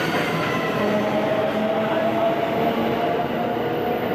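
Freight train running past, a steady rumble of wheels on the rails.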